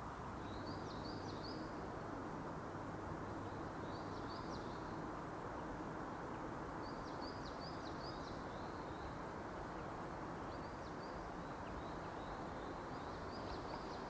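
Small birds chirping in short quick runs, about five times, over a faint steady hiss of forest ambience.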